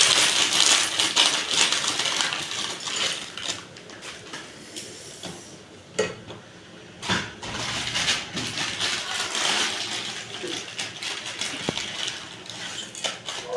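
Metal kitchen utensils clattering and scraping against a pan and dishes, in many irregular clicks with a dense hiss, loudest in the first few seconds.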